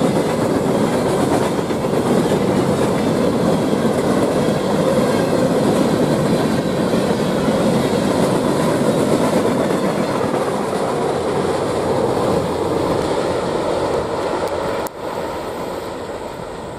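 Empty open-top coal hopper cars of a freight train rolling past close by, a loud, steady noise of steel wheels on rail. About fifteen seconds in the sound drops suddenly and then fades as the end of the train moves away.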